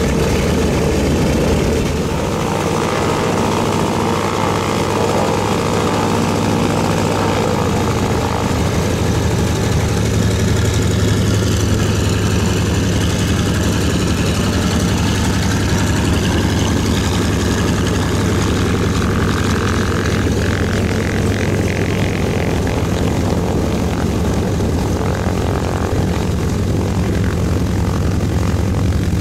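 Twin radial piston engines of a Douglas DC-3 running with propellers turning, a steady loud drone. The engine note shifts a couple of times in the first eight seconds.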